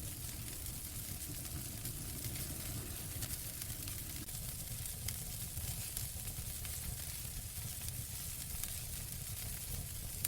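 Wood fire crackling in a fireplace: a steady hiss and low rumble with many small, irregular pops and snaps.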